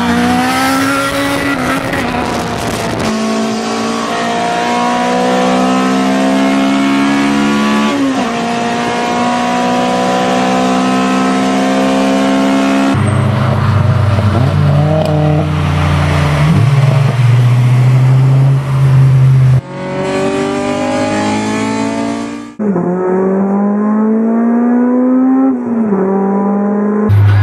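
Car engine and exhaust revving under hard acceleration, heard in a string of short clips. In each one the pitch climbs as the revs rise. Near the end the engine comes off the throttle and the pitch drops.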